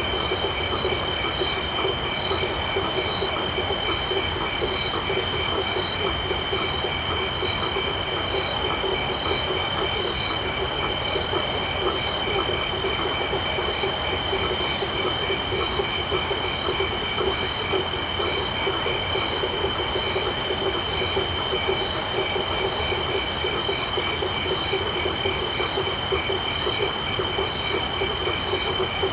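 Tropical night chorus of crickets and frogs: several steady high insect trills layered together, a dense pulsing chorus lower down, and calls repeating about once a second.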